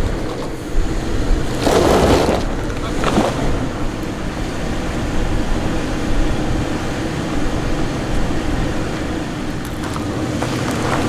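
Toyota Land Cruiser 100 series engine running at low speed as the truck crawls over boulders, with wind buffeting the microphone. A couple of brief louder bursts come about two and three seconds in.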